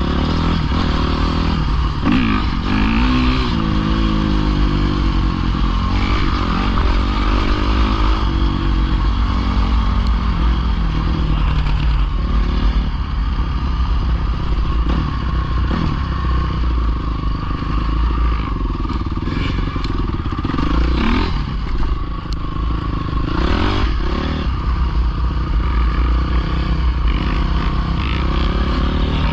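Pit bike engine revving up and down repeatedly as the bike is ridden, with rattling clatter throughout.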